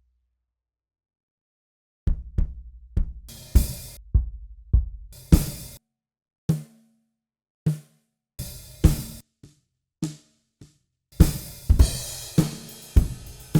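Sampled acoustic drum kit, the 1960s Japanese stencil kit of Toontrack's Alchemy Of Pop EZX played in EZDrummer 3, running a pop groove of kick, snare and hi-hat. It starts about two seconds in, thins to a few scattered hits in the middle, then comes back fuller with cymbals near the end.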